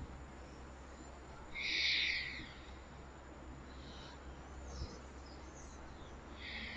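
A bird calling: one loud call about two seconds in, a few faint high chirps, and a second similar call near the end, over a steady low hum.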